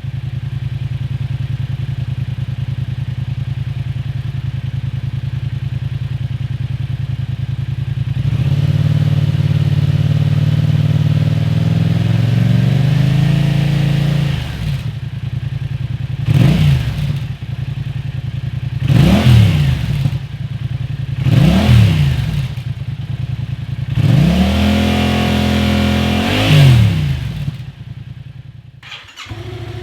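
Yamaha FZ-07's 689 cc parallel-twin engine running through its exhaust: a steady idle that rises for a few seconds and settles, then three quick throttle blips and one longer held rev. The sound cuts off abruptly near the end.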